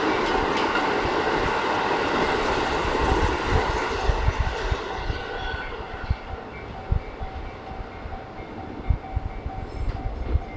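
A Keikyu Main Line train passing through a level crossing. Its running noise is loud at first and fades over the second half, with scattered low thumps.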